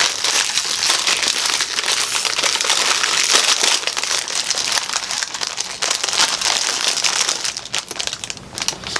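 Cookie package being handled and opened, its wrapper crinkling and crackling steadily before the crackles thin out and grow quieter near the end.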